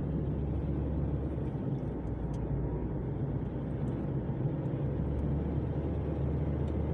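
Steady road and engine noise of a moving car, heard from inside the cabin: a low, even rumble.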